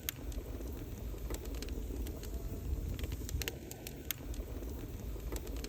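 Wood fire burning, with many sharp crackles and pops over a low rumble.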